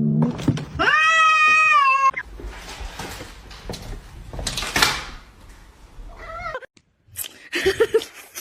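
A cat meowing: one long meow about a second in, then a shorter one about six seconds in.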